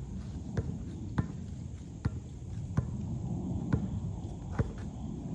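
A basketball being dribbled on a hard court: six sharp bounces at an uneven pace of about one a second.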